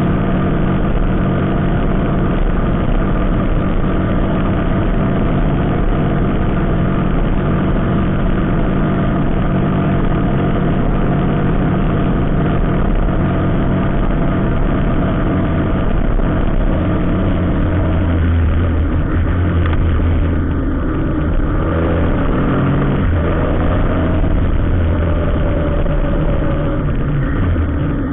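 Vehicle engine running steadily. About two-thirds of the way through, the engine note shifts and a lower hum grows stronger.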